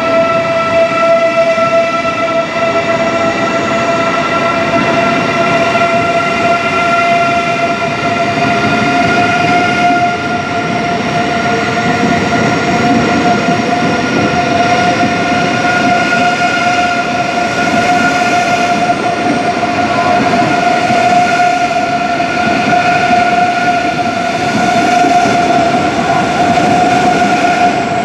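Long passenger train moving slowly past the platform: a steady rumble of wheels on rail with a continuous high whine that rises slightly in pitch.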